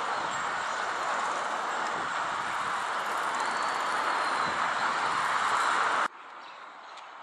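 Steady rushing noise of a passing train, building slightly, then cutting off sharply about six seconds in.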